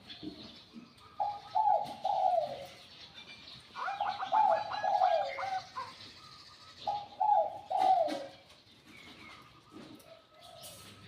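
Spotted dove cooing: three phrases of low, gliding coos a couple of seconds apart, with faint chirping from other birds in the background.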